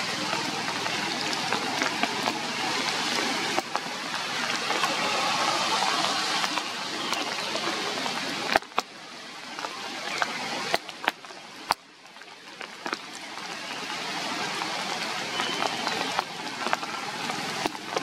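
Steady rain hissing down with scattered drops ticking. It thins out for a few seconds past the middle, where a few sharp taps stand out, then builds back.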